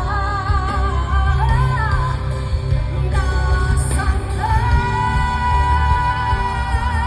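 Live pop band music with singing: a voice holds long, wavering notes with vibrato over a steady bass.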